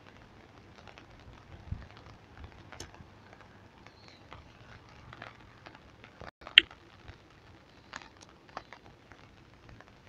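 Rain falling, with scattered drops tapping close by. One sharp, louder tap stands out about two-thirds of the way through.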